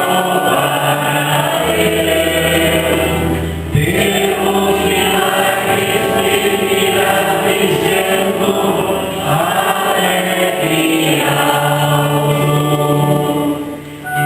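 Church singing group performing a hymn in sustained choral phrases over a low, held accompaniment. There is a short break between phrases about four seconds in and another near the end.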